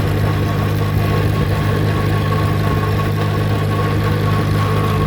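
Allis-Chalmers C tractor's four-cylinder engine running steadily while the tractor travels in road gear, with a thin steady high whine over the engine note.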